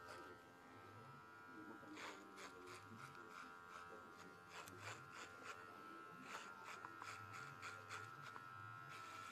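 Electric hair clipper running faintly with a steady hum while cutting hair short, with scattered short clicks.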